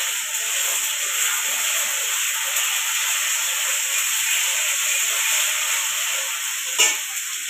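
Tomatoes and spices frying in hot oil in a metal kadai, sizzling steadily as they are stirred with a ladle; one sharp click near the end.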